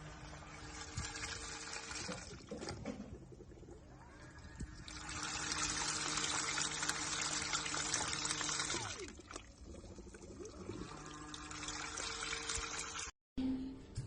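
Water running, loudest for about four seconds in the middle, over a steady low hum.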